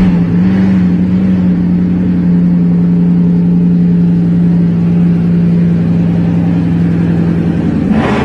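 Bugatti Bolide's quad-turbo 8.0-litre W16 engine just after a cold start, settled into a loud, steady high idle.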